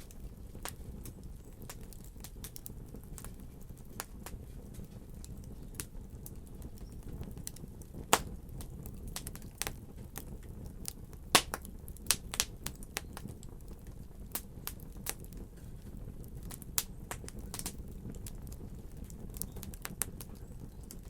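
Wood fire burning in a fireplace: a steady low rumble of flames with irregular sharp crackles and pops, the loudest two pops about 8 and 11 seconds in.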